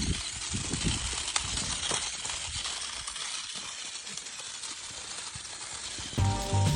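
Gritty rattling and crunching noise with scattered clicks, then background music with a steady beat starts about six seconds in.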